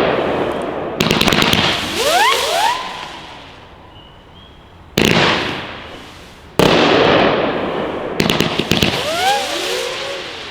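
A 27-shot Class B fireworks cake firing: about four sharp launch-and-burst reports a second or two apart, each trailing off over a couple of seconds. After two of the shots come short rising and falling whizzes, likely the go-getter effects.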